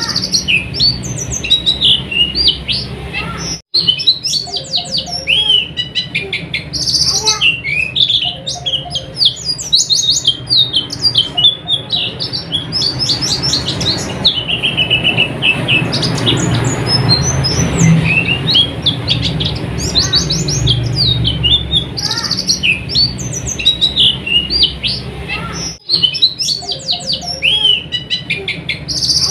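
White-eyes (pleci) singing a fast, near-continuous high-pitched twittering of chirps and trills, with two very brief breaks about 4 and 26 seconds in.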